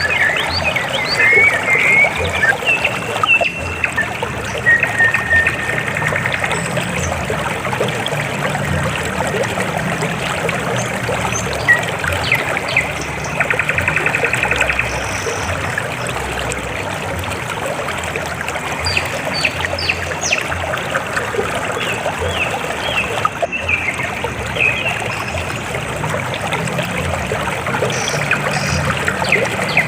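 River water flowing and trickling steadily over rocks, with a low burbling. High chirping and trilling calls come and go over it, clearest near the start, around the middle and near the end.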